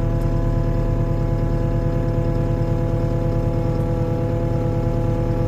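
Skid steer engine running steadily at constant speed while the machine pushes slowly against trees to uproot them, a low drone with several steady tones over it.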